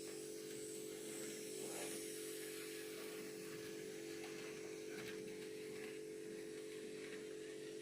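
Steady electric hum from an N gauge model railway in operation, with a few faint ticks.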